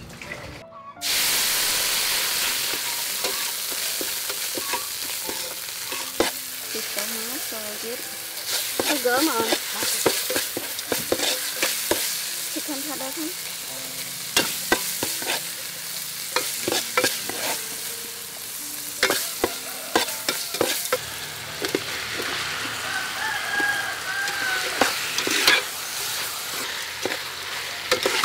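Spice paste and meat sizzling as they fry in a metal pot, with a metal spoon stirring and scraping against the pot in frequent clicks and scrapes. The sizzle starts suddenly about a second in.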